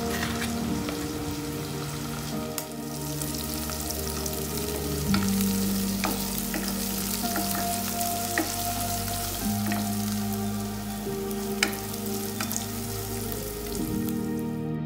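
Sliced onions and green chillies sizzling as they fry in hot oil in a pan, stirred with a wooden spatula. A few sharp clicks of the spatula against the pan come through the sizzle.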